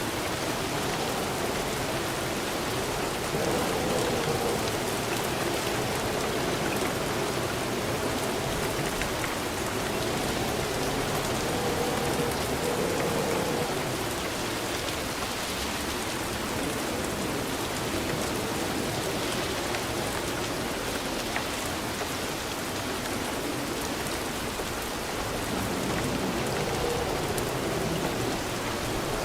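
Rain falling steadily, an even hiss of drops on surfaces with no let-up.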